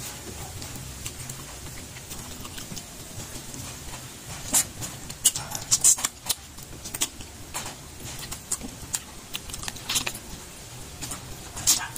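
Close-up eating sounds: wet chewing and lip smacks while eating cooked porcupine fish by hand, coming as irregular clicks that are busiest and loudest about halfway through.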